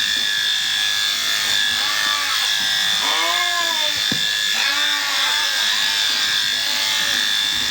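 Electric sheep-shearing handpiece running steadily with a constant high whine. Short pitched calls, voices or bleats, sound over it.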